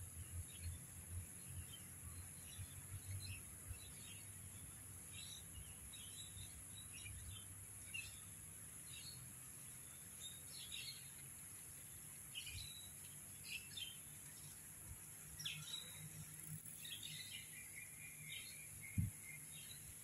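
Birds chirping in short, scattered calls over a steady high-pitched insect drone, with a single thump near the end.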